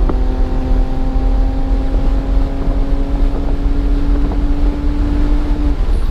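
Car engine held under throttle, its pitch rising slowly and steadily, heard from inside the car over heavy road and wind rumble. The engine tone drops out near the end.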